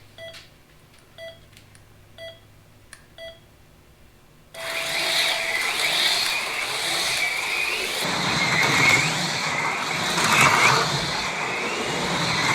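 Race-start countdown beeps, one short beep a second, then a longer start tone about four and a half seconds in, and AFX Mega G+ HO slot cars take off: their small electric motors whine and rise and fall in pitch as the cars run laps, with a steady whir and rattle from the cars on the track.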